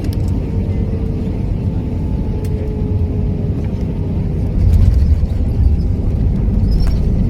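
Airbus A319 cabin noise during the landing: a steady low rumble that grows louder about four and a half seconds in, with a faint tone that drifts slightly lower.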